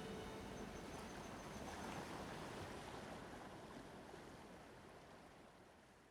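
Faint, even rushing noise that slowly fades out toward the end.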